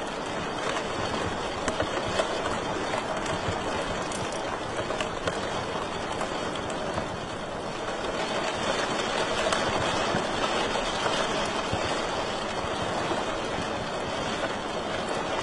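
Wood fire in a fireplace crackling steadily, a dense bed of hiss with many small, irregular pops and snaps.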